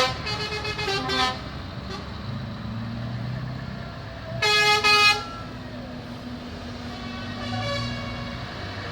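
Truck horns sounding over the steady rumble of truck engines: a loud blast right at the start, a few short toots in the next second or so, another loud blast about four and a half seconds in, and a fainter one near the end.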